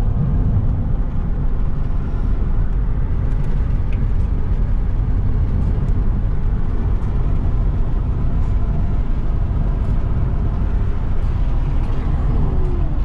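Car on the move: steady engine and road noise heard from inside the cabin, heavy in the low end and even throughout.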